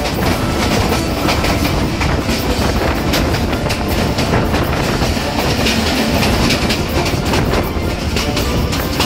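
The Allama Iqbal Express passenger train running at speed, heard from an open carriage window: its wheels clatter over the rail joints over a steady loud rush of track and wind noise. Another train's coaches pass close alongside for part of the time.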